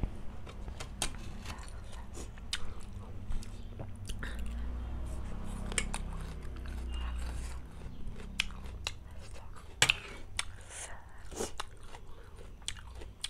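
Close-miked mouth sounds of a person slurping and chewing spicy instant noodles (Current chauchau), with many sharp wet clicks. The loudest click comes about ten seconds in.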